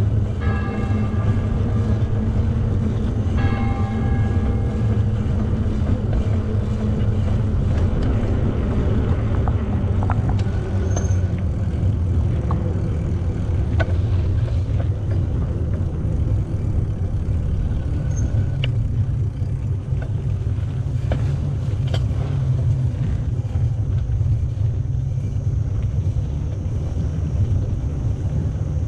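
Steady low rumble of wind and riding noise on a camera microphone carried on a moving bicycle, with a few sharp clicks along the way.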